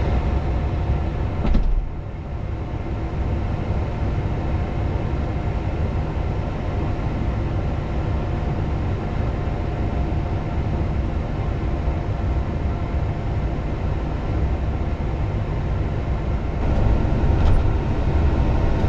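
Steady low rumble of a large vehicle driving, engine and road noise with a faint constant hum over it.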